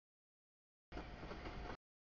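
Freight train of tank cars rolling past, a faint even rumble with a thin steady tone, heard only in a short fragment about a second in; before and after it the sound drops out to dead silence.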